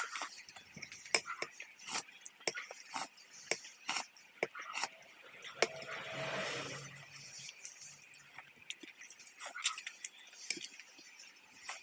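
Eating sounds from a hotpot meal: utensils repeatedly clicking and clinking against dishes, along with chewing. About six seconds in there is a longer noisy sound lasting roughly a second.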